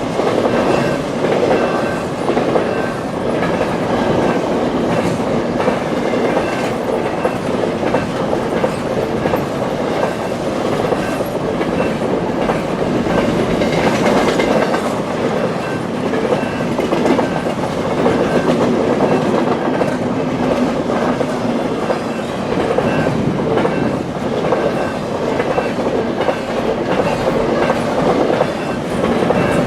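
CPKC freight train rolling past a level crossing, its cars' wheels clacking steadily over the rail joints, while the crossing bell rings in quick repeated strokes.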